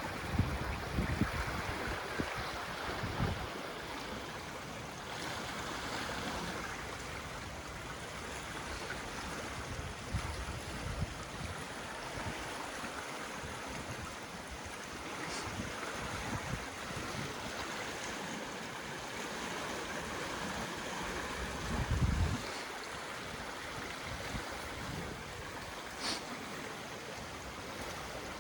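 Swollen river rushing in a steady flow, with wind buffeting the microphone in low gusts, strongest near the start and about two-thirds of the way through.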